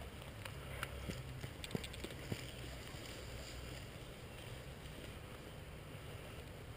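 A few sharp clicks in the first couple of seconds over a steady low rumble.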